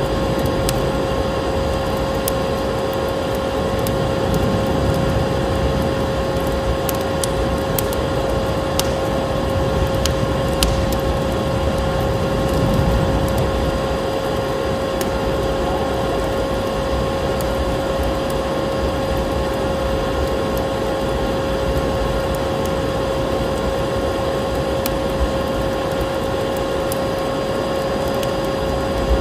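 Vacuum cleaner running steadily: an even rushing of air with a constant motor whine, and a few faint clicks here and there.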